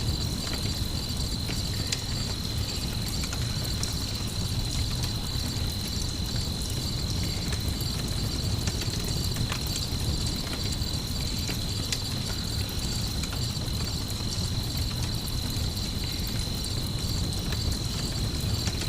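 Night ambience of crickets chirping in a continuous high trill over a crackling campfire, with scattered sharp pops and a steady low rumble underneath.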